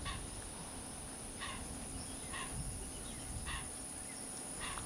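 A bird giving a short call about once a second, five times, over a steady high-pitched insect buzz and low outdoor background noise.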